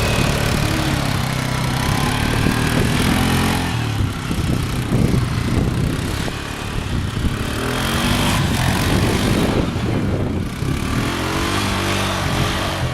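A four-wheeler (ATV) engine running and revving up and down over and over, with the pitch rising and falling in several swells under load.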